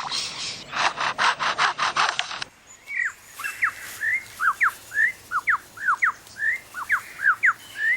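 Superb lyrebird mimicking a chainsaw: a fast run of harsh rasping bursts that stops about two and a half seconds in, then a series of clear downward-sweeping whistled notes, about two a second.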